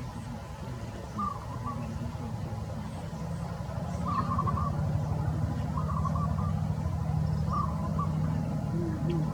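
A bird giving short calls, repeated every second or two, over a low steady engine-like hum that grows louder about four seconds in.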